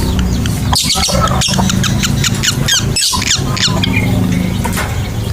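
Lovebirds chattering in rapid, high-pitched chirps, thickest about one to four seconds in, over a steady low hum.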